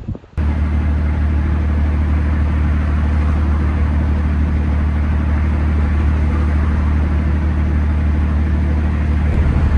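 Steady engine and road drone of a vehicle cruising at constant speed, a low hum with an even rushing noise over it. It cuts in abruptly about half a second in.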